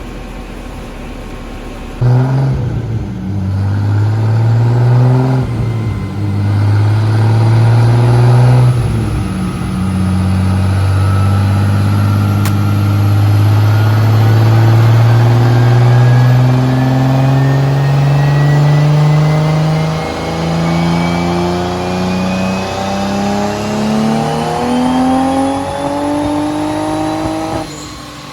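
Turbocharged 2JZ-GTE inline-six of a 1995 Toyota Supra, on E85, run on a chassis dyno. It revs in a few short bursts that break off, then makes one long full-throttle pull with the pitch rising steadily, cut off abruptly near the end. The tuners say the car is still down on power because of weak ignition coils.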